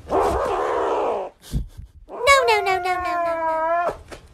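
Kitten crying: a rough, noisy cry in the first second or so, a short thump, then one long drawn-out meow starting about two seconds in.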